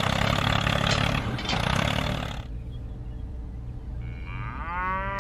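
Tractor engine running: loud and rough for the first two and a half seconds, then quieter and steady. About four and a half seconds in, a single drawn-out call rises in pitch and holds for about a second over the engine.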